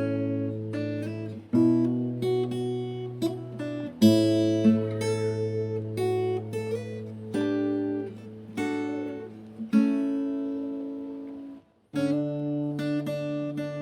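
Background music of picked acoustic guitar notes and chords. Near the end a held chord fades out, there is a brief gap, and the playing starts again.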